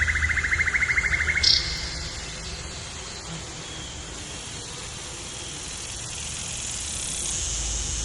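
Outdoor nature ambience: a rapid pulsing trill stops about a second and a half in, leaving a steady hiss over a low hum that grows a little brighter near the end.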